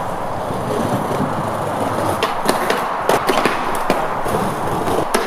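Skateboard wheels rolling steadily over paved ground, with a series of sharp clacks from about two seconds in.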